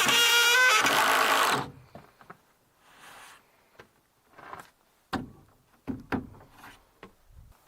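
A small motorised power tool runs loudly and cuts off about a second and a half in, followed by scattered knocks and scrapes of wood being handled, with a few sharper thuds near the end.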